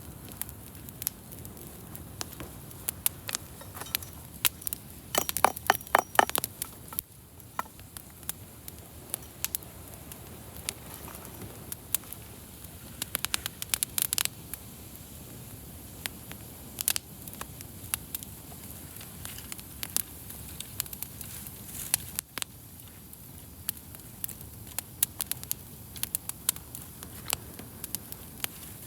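Wood campfire crackling, with irregular sharp pops and snaps over a steady low hiss of the burning fire; a busier run of pops comes about five to six seconds in.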